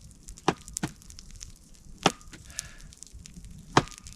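A few sharp clinks of an eating utensil against a metal pot, each leaving a brief faint ring, spaced unevenly over a few seconds.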